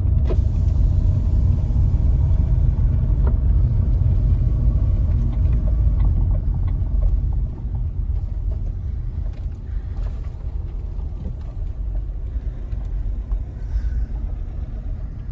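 Car driving, heard from inside the cabin: a steady low engine and road rumble with a faint hum, which drops in level about halfway through.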